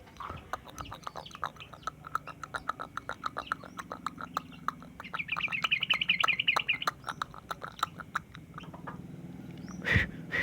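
Yellow-vented bulbul giving a long run of short, quick chattering notes, about five or six a second, breaking into a faster, higher trill about halfway through. A low steady hum runs underneath.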